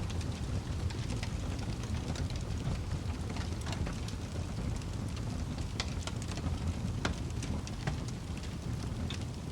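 Wood fire crackling in a fireplace: a steady low rumble of flames with scattered sharp pops and snaps at irregular intervals.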